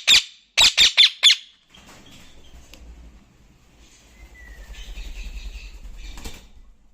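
Pet parrot squawking in a quick run of short, harsh, high calls that stops about a second and a half in. After that there is only a quieter low rumble with one faint short whistle, and a hazy noise near the end.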